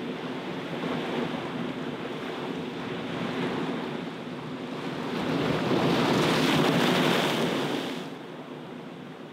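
Sea waves breaking and washing against a stone seawall, with a bigger wave surging and crashing louder about five to eight seconds in before it falls back.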